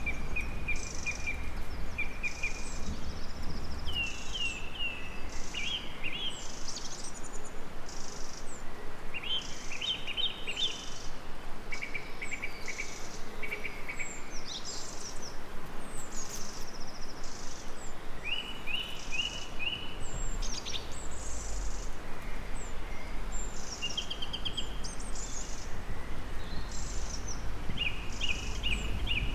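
Several songbirds singing short trilled and repeated phrases over a steady, regularly pulsing high insect chirp, with a faint low rumble underneath.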